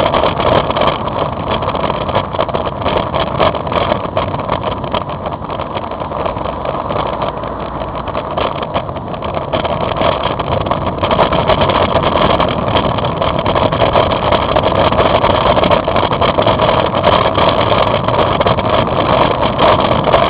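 Steady noise of riding a motorbike in the rain: engine running with wind and wet-road hiss, growing a little louder in the second half.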